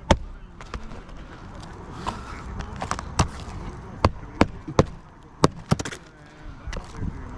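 Irregular sharp knocks and taps of hand tools working on asphalt roof shingles, a dozen or so strikes at uneven intervals.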